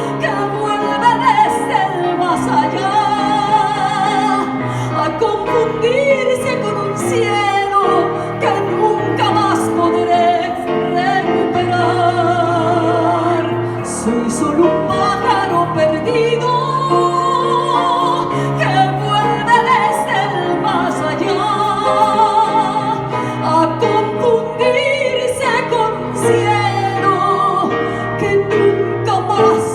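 Slow, sad song performed live: a woman singing in operatic style, with vibrato on long held notes, over instrumental accompaniment.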